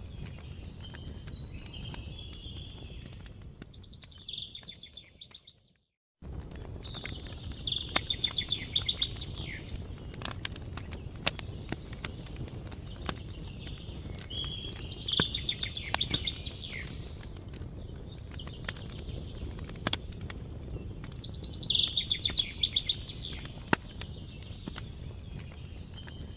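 Campfire crackling, with frequent sharp pops over a low rumble of burning wood, while a songbird sings short trilled phrases every few seconds. The sound fades out and cuts back in about six seconds in.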